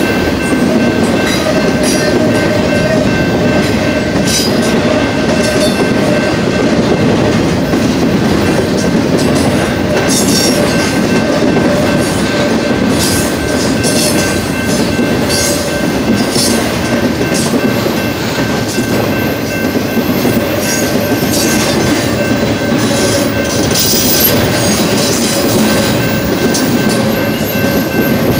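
Freight cars of a BNSF intermodal train rolling past: a steady, loud rumble of steel wheels on rail with scattered sharp clicks from the wheels and rail joints, and a thin steady high whine over it.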